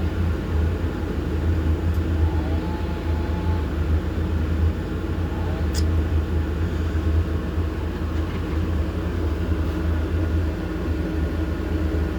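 Excavator (logging shovel) diesel engine running steadily, heard from inside the operator's cab as a constant low drone. A single brief click sounds a little before halfway through.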